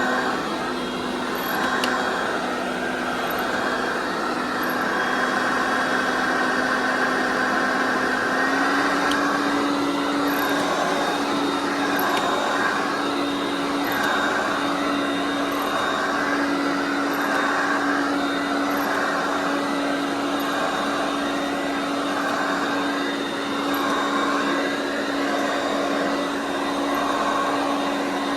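Mid-1980s Hoover Concept 2 upright vacuum cleaner running steadily. Its motor hum steps up slightly in pitch about eight seconds in, and the airflow whoosh swells and fades about every second and a half.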